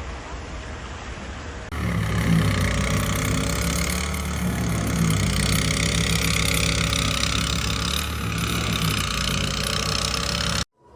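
A motor vehicle's engine running steadily at low revs. It comes in suddenly about two seconds in, after a quieter steady hiss, and cuts off abruptly just before the end.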